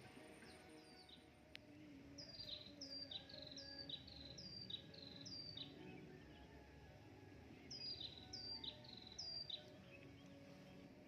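A bird calling a series of short, high whistled notes, each sliding downward, repeated about twice a second in three bouts, with a pause before the last bout.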